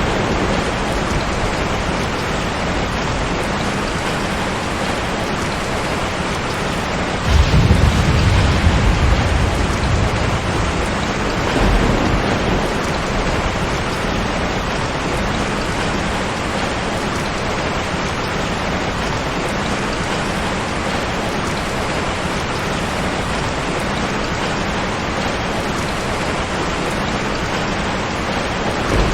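Steady rain falling, with a rumble of thunder swelling about seven seconds in and dying away over about three seconds, and a fainter rumble a few seconds later.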